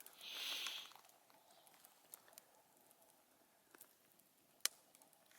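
Mostly near silence, with a brief soft hiss at the start and faint scattered clicks, one sharper click about two-thirds of the way through.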